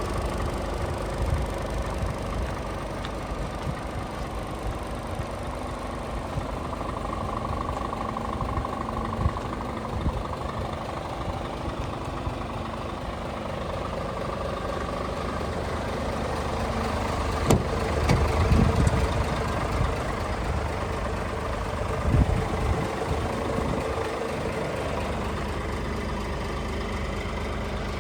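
Scania R450 truck's 13-litre inline-six diesel engine idling steadily, with a few short knocks about two-thirds of the way through.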